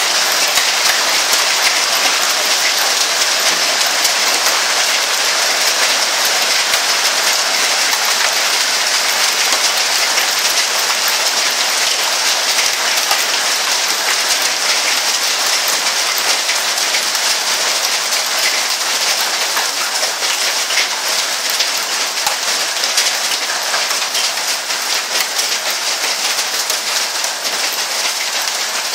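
Heavy rain from a severe thunderstorm, falling steadily as a dense hiss of drops, easing slightly near the end.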